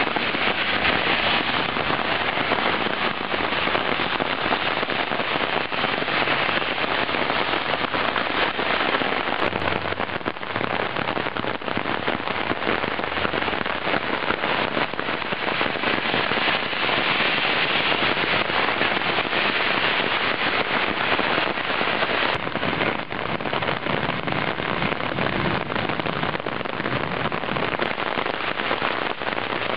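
Heavy summer downpour: rain falling steadily as a dense, even hiss.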